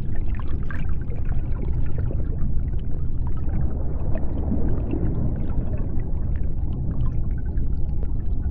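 Underwater ambience: a steady deep rumble with many scattered small clicks and crackles over it.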